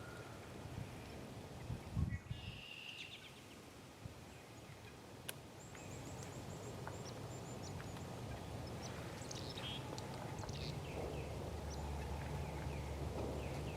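Small woodland birds calling and chirping around a feeder: scattered short calls, with a quick run of high notes about six seconds in, over a low steady background rumble. A single thump about two seconds in.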